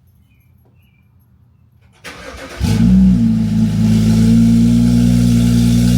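Cold start of a BMW F25 X3's N55 turbocharged straight-six with its catalytic converters removed: after about two seconds of quiet the starter cranks briefly, then the engine catches loudly and settles into a steady, loud idle through the open exhaust.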